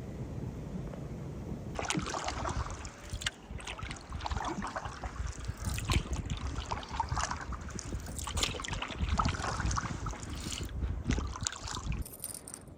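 Canoe paddle strokes in the water, a splash and swirl about every second or so, with wind rumbling on the microphone; the sound stops abruptly near the end.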